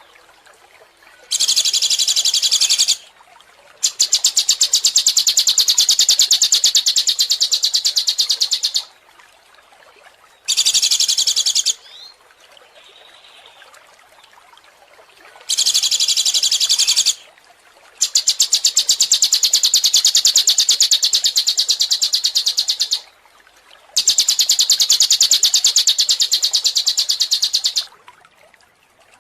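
A songbird singing loud, very rapid high-pitched trills in six bursts, short ones of about a second and a half alternating with long ones of four to five seconds, with brief pauses between.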